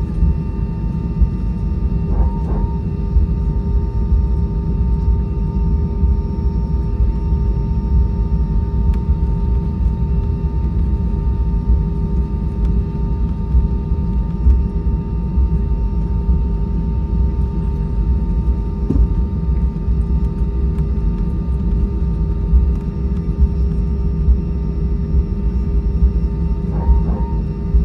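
Cabin noise inside an Airbus A320-232 rolling on the ground after landing: a steady low rumble with a steady hum of several tones from the aircraft's IAE V2500 engines and systems.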